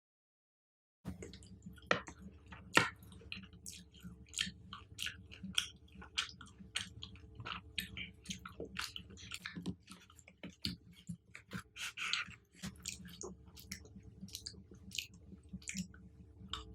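Close-miked chewing of chocolate-covered fruit: a dense run of wet, crackly clicks and smacks, with two louder sharp snaps about two and three seconds in. It begins after about a second of dead silence.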